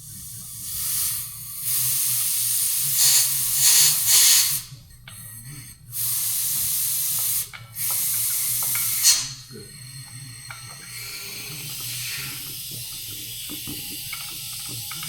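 Spray hissing in three bursts, each one to three seconds long, during cleaning of an air-conditioning unit, then a fainter steady hiss with a few small clicks. A low steady hum runs underneath.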